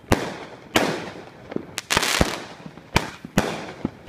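Consumer fireworks going off: about eight sharp bangs at uneven intervals, three in quick succession about two seconds in, each trailing off in a fading echo.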